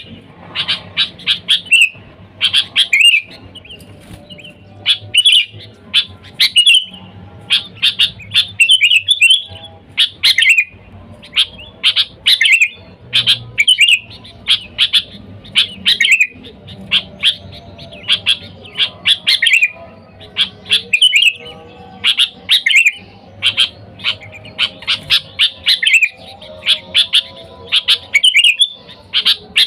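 Sooty-headed bulbul singing, short bubbly phrases of chirps repeated over and over about once a second, over a faint low hum.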